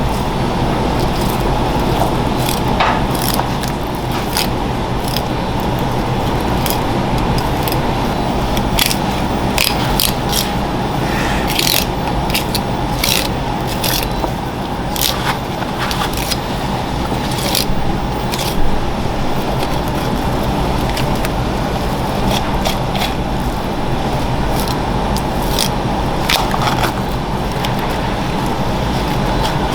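Kitchen work sounds: scattered sharp clicks and scrapes of a knife and utensils on a cutting board over a steady background hum.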